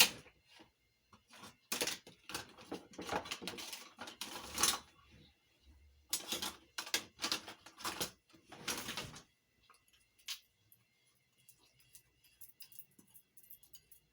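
Kitchen handling noises: a run of scraping and knocking as the rest of an ingredient is emptied from its container into the potato mix, lasting about nine seconds before dying away.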